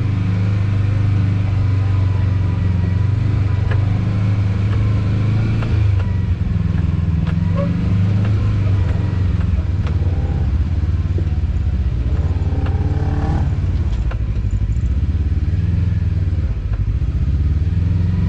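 Off-road vehicle engine running at low revs as the vehicle climbs a rock obstacle, the pitch rising and falling with the throttle. A few short knocks and clatters are heard along the way.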